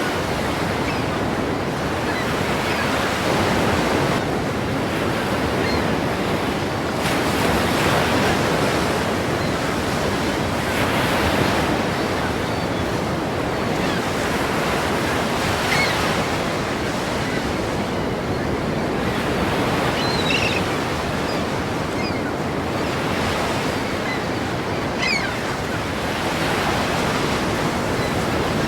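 Ocean surf: waves breaking and washing in, a steady rush of water that swells every few seconds.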